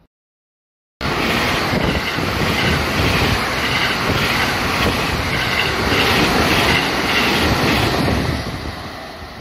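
JR West 223 series electric train passing through the station at speed: a loud rush of wheels on the rails with some rattle. It starts abruptly about a second in and fades near the end as the train draws away.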